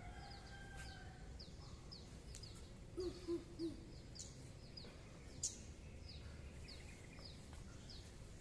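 Faint outdoor ambience with birds calling: a run of short, high, falling chirps repeating throughout, and three short low notes about three seconds in. A single sharp tap sounds a little past halfway.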